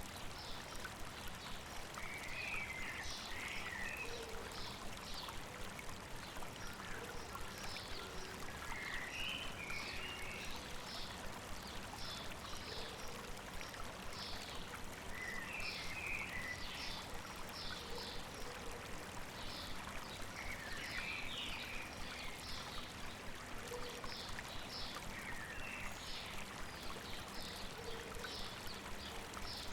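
River water babbling steadily over rocks, with birds singing over it: a short warbling phrase repeated about every six seconds and quick high chirps throughout.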